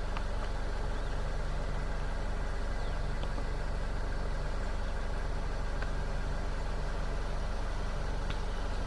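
Car engine idling steadily, a low even hum with no change in speed.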